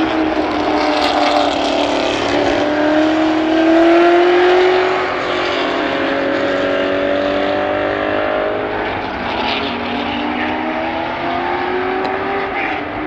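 Classic racing car's engine under hard acceleration, its pitch climbing through each gear and dropping at three upshifts.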